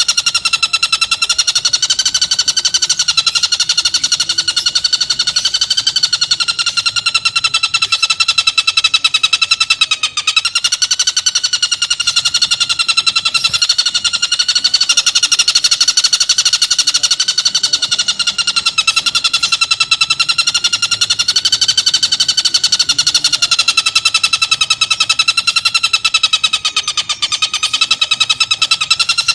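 Tengkek buto (stork-billed kingfisher) giving its harsh, rapid-fire 'tembakan' call: a continuous buzzing rattle of very fast notes whose pitch wavers slowly up and down without a break.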